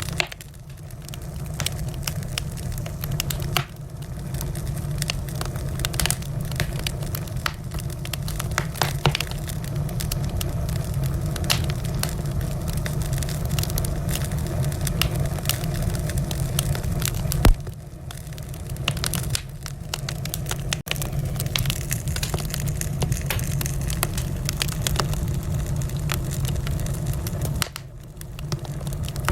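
Wood fire in a fireplace crackling, with a steady low rumble of the flames and frequent irregular pops and snaps, one louder pop about two-thirds of the way through.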